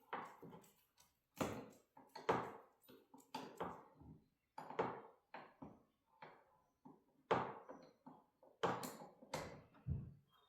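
Wrench loosening the bolts of a garage door torsion spring's center bracket: a string of short, sharp metallic strikes, irregularly spaced about one a second.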